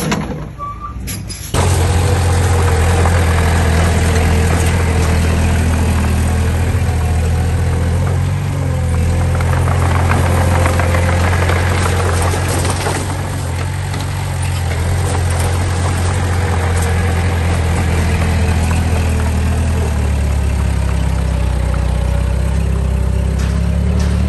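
Heavy diesel engine of an earthmoving machine running steadily close by, cutting in suddenly about a second and a half in, with small shifts in engine speed.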